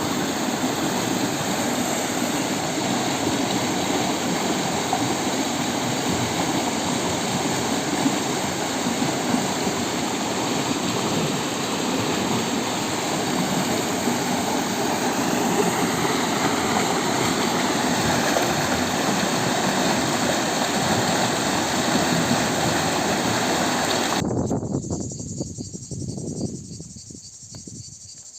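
Rushing water of a mountain stream or waterfall, a steady, full rush. About 24 s in it cuts away and fades over a few seconds, leaving faint insect chirping.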